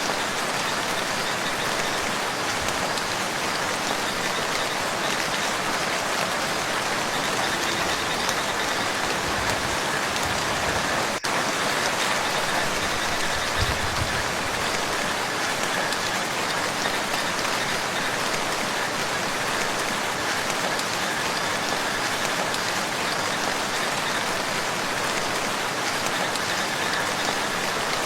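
Steady rain falling onto a lake and its shore, an even hiss of drops with one brief dropout about eleven seconds in.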